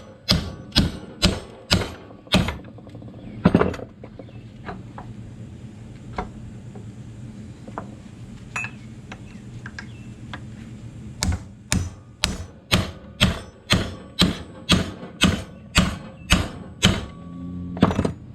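Hammer blows on a drive shaft yoke, knocking out a rusted universal joint cup: a run of sharp strikes about two a second, one heavier blow a few seconds in, a pause with small clicks, then another steady run of strikes.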